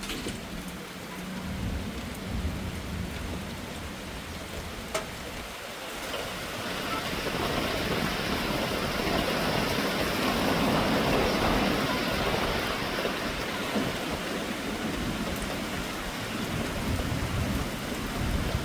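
Heavy thunderstorm rain pouring down, a steady hiss that swells louder from about six seconds in and eases slightly near the end.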